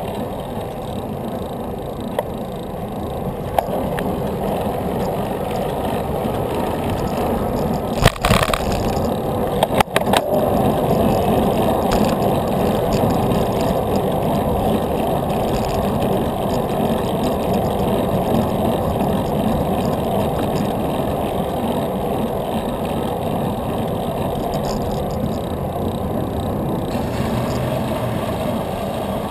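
Steady rumble of wind and road noise while riding a bicycle, with a few sharp knocks about eight and ten seconds in.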